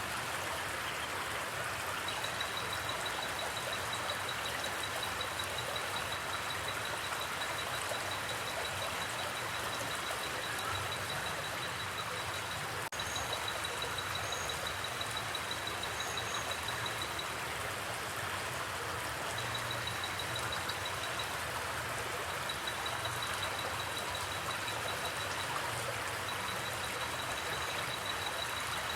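Steady rush of flowing creek water, with a high, fast-pulsing trill that comes and goes in runs of a few seconds.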